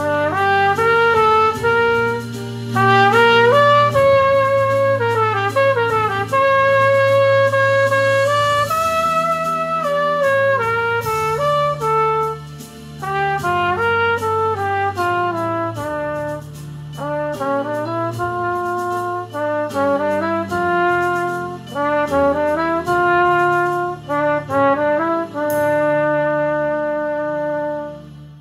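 Yamaha 6345G trumpet playing a melody of quick running notes and longer held notes over an accompaniment of sustained low notes. The music stops near the end.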